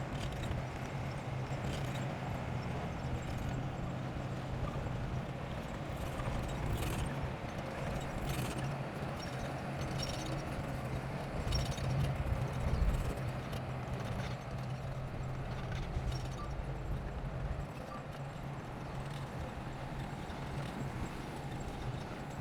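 Bulldozer's diesel engine running steadily, with irregular clanking and knocking from the machine's tracks and work over it.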